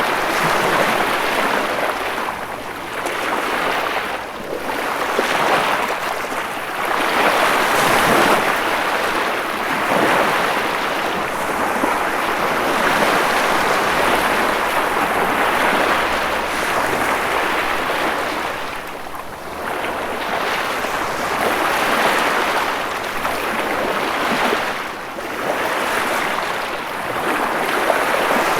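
Ocean waves breaking and washing ashore: a continuous rushing surf that swells and eases every few seconds.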